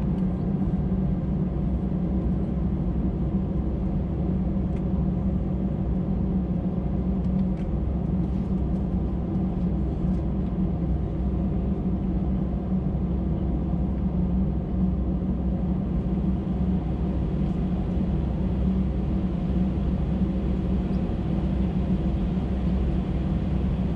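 Steady low rumble of aircraft cabin noise inside an Airbus A319-112, unchanging in level and pitch.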